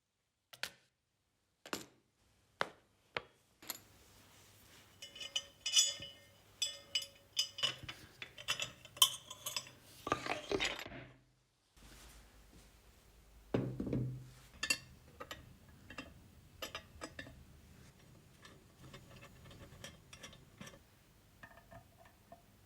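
Metal parts and tools clinking and knocking against each other in a run of sharp separate strikes with a metallic ring, busiest in the middle, with one heavier knock about two-thirds of the way through and lighter taps after it.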